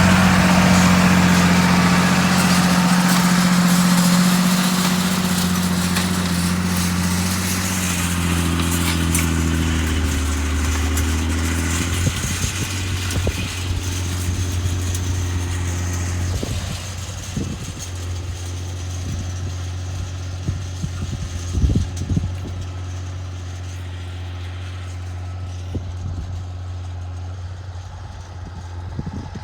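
John Deere 8200 tractor's six-cylinder diesel running steadily while working ground with a deep-till cultivator, its drone gradually fading. A few short thumps come in the later part.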